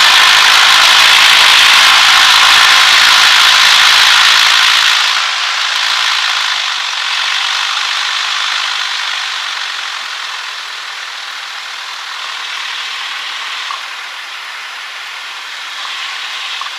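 Cockpit noise of a Cessna 152 taxiing with its engine running: a steady, loud hissing rush that drops in level and thins out about five seconds in, then slowly grows quieter.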